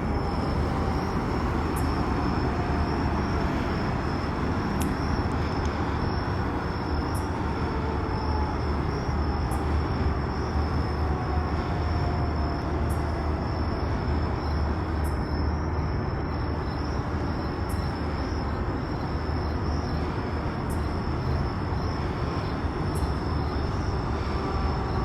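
Fire engine's diesel engine running with a steady low rumble, without siren.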